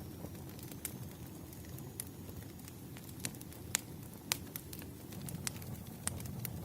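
Campfire burning: a steady low rumble of flames with a handful of sharp wood pops and crackles scattered through it, the loudest pops in the middle.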